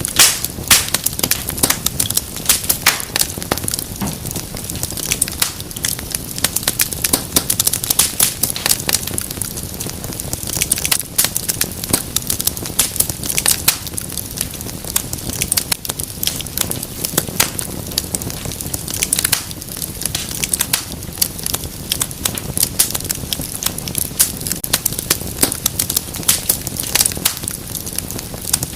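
Wood fire crackling and popping steadily, with dense irregular snaps over a soft rushing bed.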